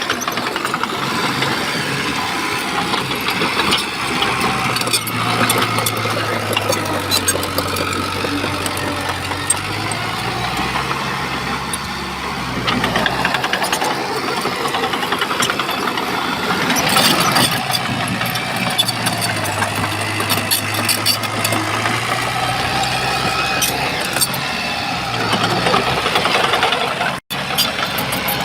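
Shantui bulldozer's diesel engine running under load, its note rising and falling as the blade works, with clanks and rattles throughout from the tracks and the rock being pushed.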